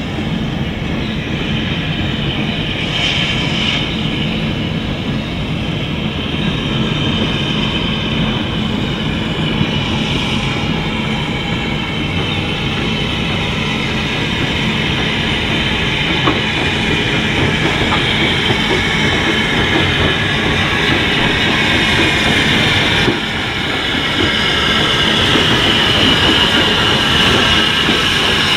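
Train running along the track with a steady rumble, and high thin wheel squeal that wanders in pitch throughout. The level steps up suddenly about 23 seconds in.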